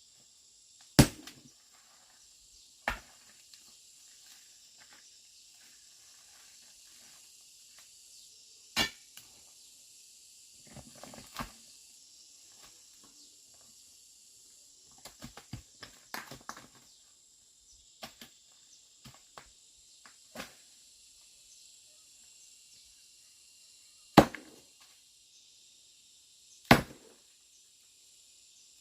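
Hard chopping or striking blows, single and seconds apart, with bouts of small knocks and clatter between them, over the steady high buzz of insects.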